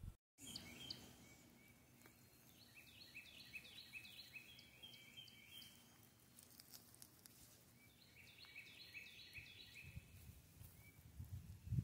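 Faint outdoor ambience with a small bird singing in the background: a run of quick repeated notes a few seconds in and another about eight seconds in. A low rumble builds near the end.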